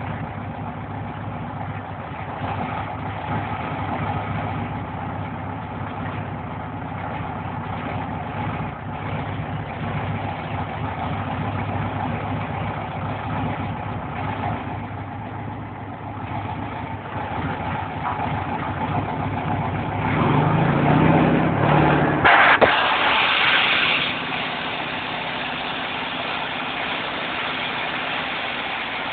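Volkswagen Beetle's air-cooled flat-four engine running steadily near idle. About twenty seconds in it revs up and gets louder for a few seconds, with a sharp click, then settles back to an even idle.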